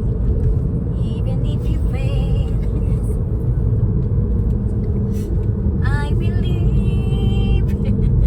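Steady low rumble throughout, with faint voices about two seconds in and again near the end.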